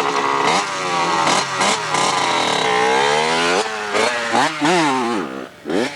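Dirt bike engine revving, its pitch swinging up and down. About four seconds in come several quick rising revs, and the engine drops off near the end.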